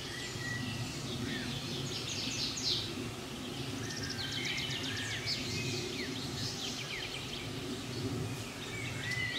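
Several small songbirds singing and calling at once, a busy mix of quick trills and chirps, over a steady low rumble.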